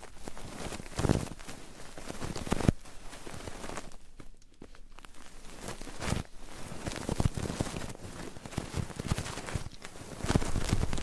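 Close-miked ASMR ear sounds: irregular rubbing and scratching on a microphone with soft thumps, as in ear massage or ear cleaning.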